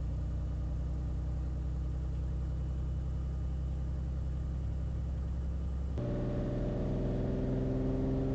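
Beechcraft Bonanza's six-cylinder piston engine and propeller running steadily at low power. About six seconds in, the throttle is opened for the takeoff roll, and the engine note jumps higher and louder, then keeps rising.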